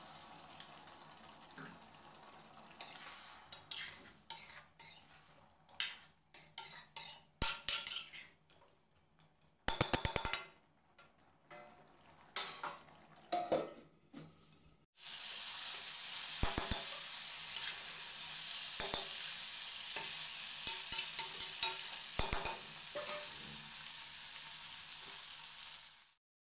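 Chicken in water sizzling and bubbling in a steel kadai on high flame, with scattered sharp clicks and a dense burst of metal clatter against the pan about ten seconds in. A steel lid is set over the pan. From about halfway through, a steady sizzling hiss with crackling pops takes over, and it cuts off just before the end.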